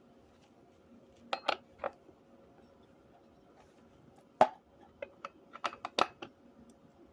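Metal clinks and knocks of tools and parts being handled while working on a small chainsaw: a few light clicks, one sharper knock midway, then a quick run of clicks.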